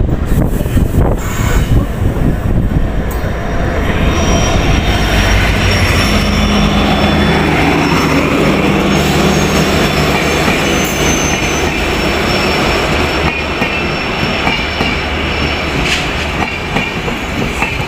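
Express train arriving: the locomotive passes close by with a heavy low rumble, then LHB coaches roll past, wheels clattering over rail joints with some high wheel squeal as the train slows.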